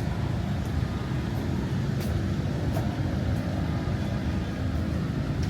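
Steady low rumble of road traffic, cars and buses passing along a busy city street.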